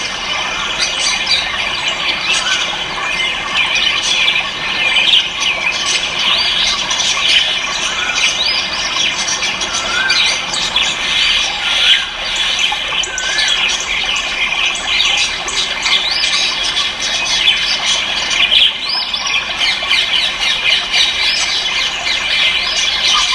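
Dense chorus of many caged birds chirping, squawking and squealing at once, with a few short whistled notes here and there.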